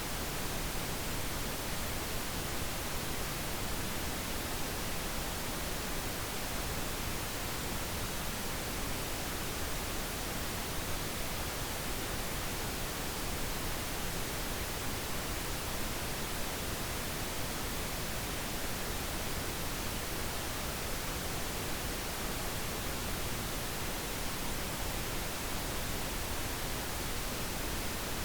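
Steady pink noise, an even unchanging hiss spread across the whole range of pitches, with no events or changes.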